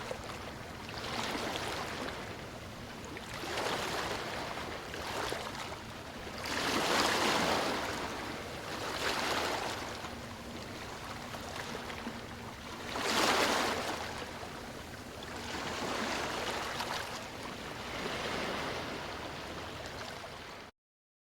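Small waves washing onto a beach, swelling and falling back about every two seconds, with two louder washes along the way. The sound cuts off suddenly just before the end.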